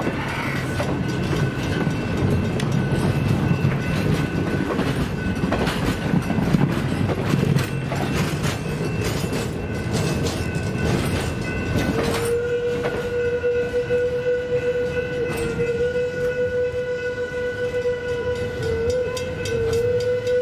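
Passenger cars rolling past on the rails with wheel clatter and rumble that dies away about twelve seconds in, while a level-crossing signal bell rings rapidly throughout. From about twelve seconds in a long, steady train whistle sounds, wavering slightly.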